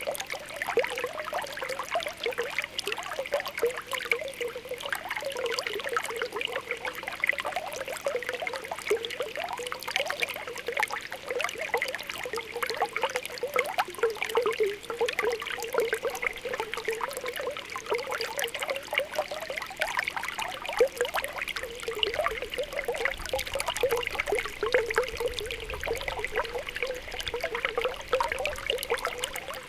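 Spring water welling up and bubbling, with a continuous run of small popping, gurgling bubbles over a steady trickle.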